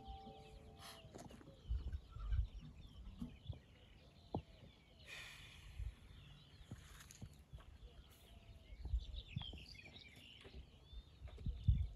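Birds chirping and calling, with a few low thumps. The last plucked note of an oud dies away in the first second.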